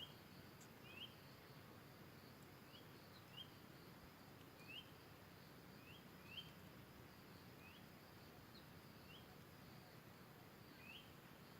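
Faint short, high chirps repeated irregularly every second or so, an animal calling over a quiet, even outdoor background.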